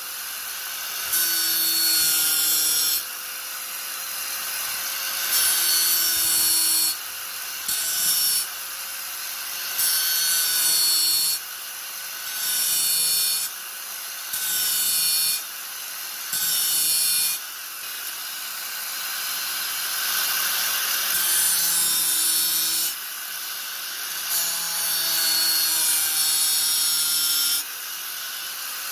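Angle grinder running steadily, its disc put to the work again and again in harsh grinding bursts of a second or two, with the motor's whine carrying on between them.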